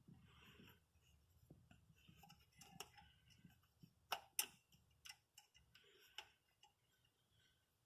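Faint, irregular clicks and taps over near silence, a handful in all, the strongest a pair about four seconds in.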